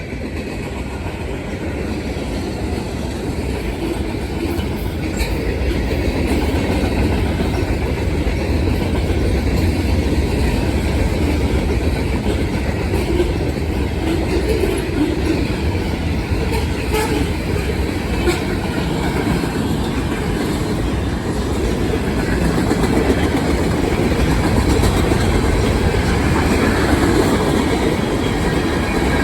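Norfolk Southern manifest freight train rolling past, its freight cars making a steady rumble that builds over the first ten seconds and then holds, with a few faint clicks.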